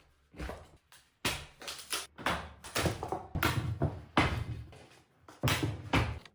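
A run of about a dozen loud knocks and scraping strokes, irregularly spaced: rotten wood being hacked and pried out from around a jammed wooden train door that the swollen wood has pushed up off its rails.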